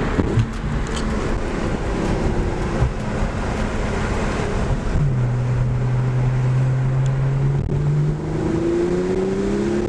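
Porsche 911 Turbo S twin-turbo flat-six pulling hard, with road and wind noise. The engine note holds steady for a few seconds, steps up, then rises in pitch near the end as the car gathers speed.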